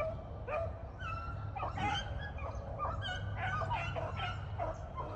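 A pack of beagles yipping and baying in many short, overlapping calls: hounds running a rabbit.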